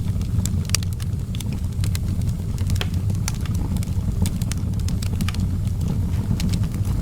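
Outdoor fireplace fire burning, crackling and popping irregularly, several pops a second, over a steady low rumble.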